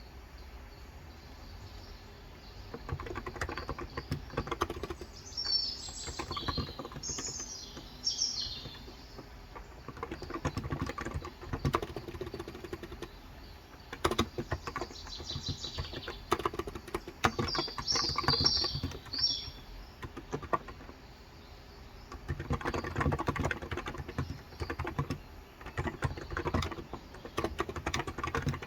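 Typing in bursts on a Cox Endeavor electro-capacitive 35 g tenkeyless keyboard, starting a few seconds in with two short pauses. Small birds chirp in two short bouts, about a quarter of the way in and again past the middle.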